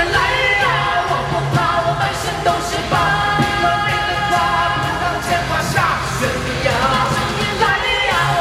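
Live pop duet in concert, heard from the audience: a singer holds long, gliding notes without clear words over a loud band with a pulsing bass line.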